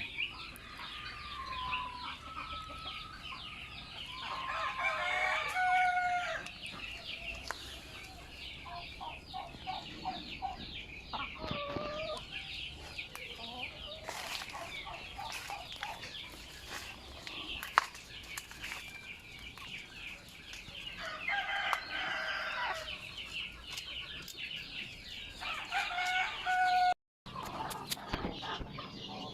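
Native chickens on a farm: roosters crowing about three times, with hens clucking between the crows, over a constant high chirping in the background. The sound cuts out briefly near the end.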